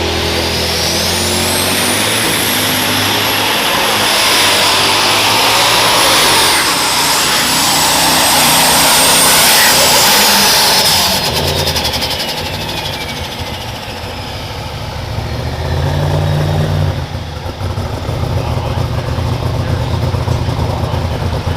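Super stock pulling tractor's turbocharged engine under full power, with a high turbo whine that climbs in the first two seconds, holds, and falls away about eleven seconds in. After that the engine runs on at lower speed.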